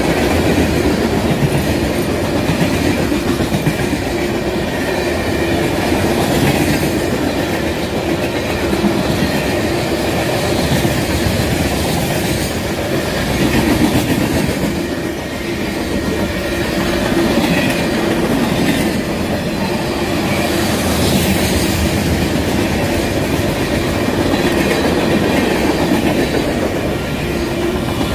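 Freight train cars rolling past, steel wheels clacking steadily over the rail joints.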